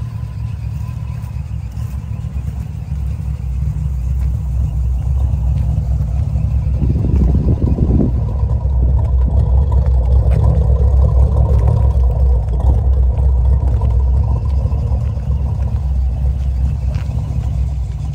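1973 Chevrolet Corvette's V8 engine running with a steady low rumble, growing louder about seven seconds in and easing off a little near the end.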